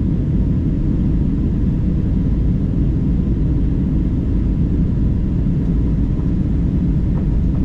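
Steady low rumble of an airliner's engines and airflow, heard from inside the passenger cabin during the descent toward landing.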